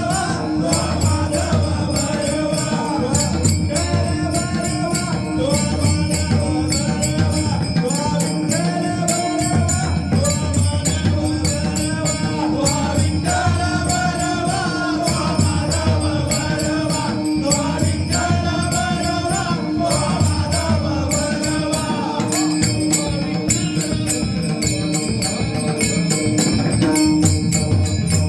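Marathi abhang singing: a man's strong voice in long sung phrases over pakhawaj drum strokes, with a steady rhythm of bright metallic strokes keeping time.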